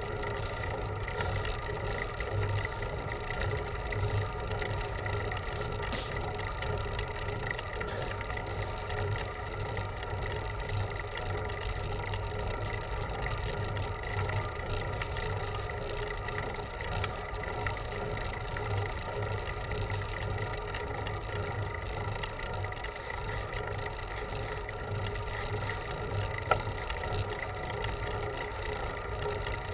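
Steady wind and road noise of a bicycle ride, a low rumble that flutters unevenly. One sharp click about 26 seconds in.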